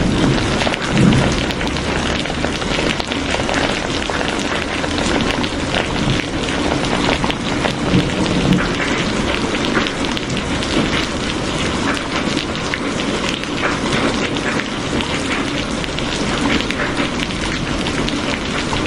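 Steady rain falling hard, a dense even hiss with many sharp drop hits on a surface close by.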